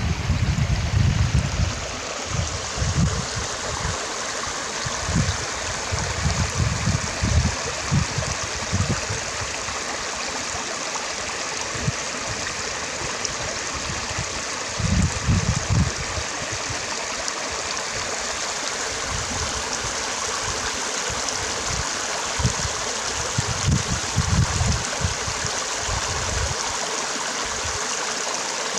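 Stream of water running and gurgling in a steady rush, with irregular low rumbles coming and going several times.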